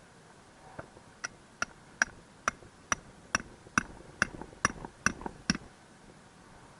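A hammer driving a metal tent peg into the ground: about a dozen sharp, ringing strikes, roughly two and a half a second, that stop after about four seconds.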